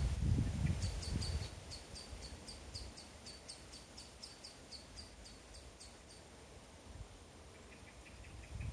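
Outdoor nature ambience: a small animal's high chirp repeats three or four times a second and stops about six seconds in. A short, faster, lower trill comes near the end, and a low rumble is heard in the first second and a half.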